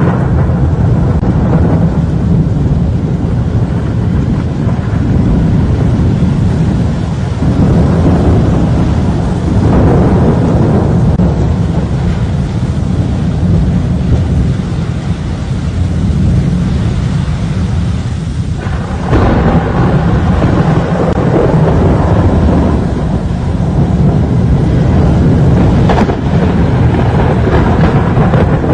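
Thunderstorm: a loud, continuous rumble of wind and rain that surges and eases, turning suddenly louder about two-thirds of the way through, with one brief sharp crack near the end.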